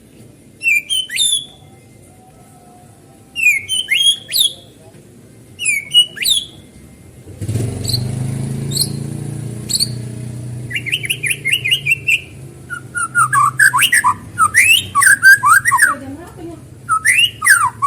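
White-rumped shama (murai batu) singing: short whistled phrases a couple of seconds apart at first, then a faster run of loud, varied whistles and chirps over the second half. A low steady hum comes in about halfway through.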